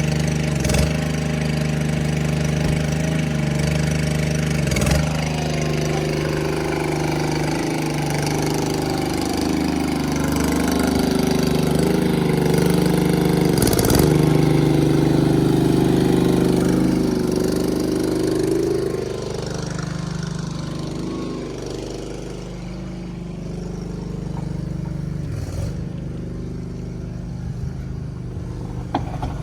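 A mid-sized engine running steadily, working harder and louder for about twelve seconds in the middle before easing back, with a few short sharp knocks along the way.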